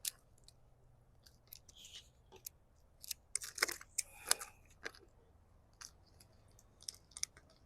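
Stencil transfer sheet being peeled from its backing and pressed onto a beehive box: scattered crackles and rustles, busiest about three and a half to four and a half seconds in. The transfer is sticking and peeling up with the backing instead of coming off cleanly.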